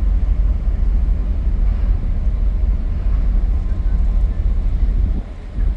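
Loud, steady low rumble of a car ferry underway, with a rushing noise over it, dipping briefly about five seconds in.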